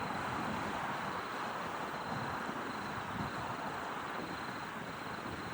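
Airbus A320 airliner on approach, a steady rush of engine and airflow noise with a faint steady high whine through it.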